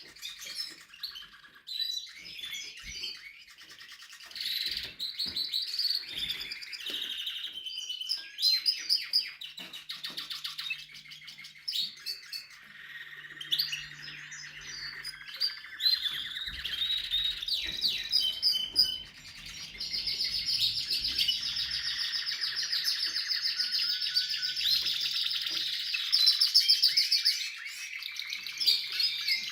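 Spanish Timbrado canary singing: a continuous song of rapid trills and rolls. About two-thirds of the way in it holds one long, even rolling trill for several seconds.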